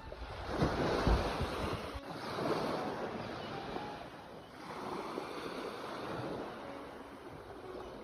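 Ocean waves breaking and washing in, surging and ebbing roughly every two seconds, with a low rumble near the start.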